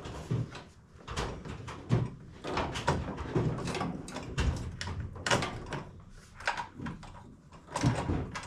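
Irregular knocks, clunks and rattles of a set of drawers being shifted and tools being handled and set down, a dozen or so separate impacts.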